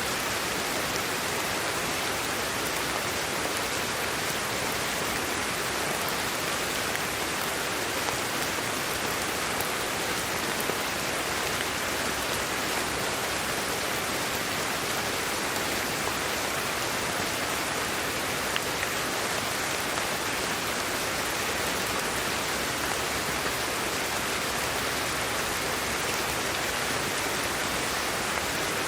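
Steady sleep-aid white noise: an even, unchanging hiss with a few faint ticks.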